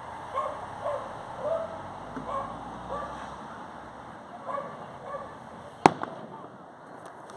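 A single sharp firework bang about six seconds in, over a background of scattered short calls and outdoor crowd noise.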